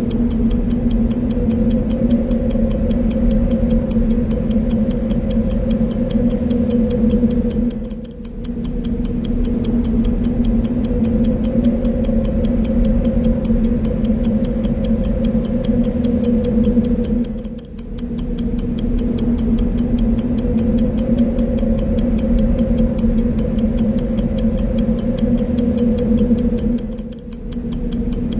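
Clock ticking with a fast, even rhythm over steady wind noise; the wind dips briefly about every nine and a half seconds.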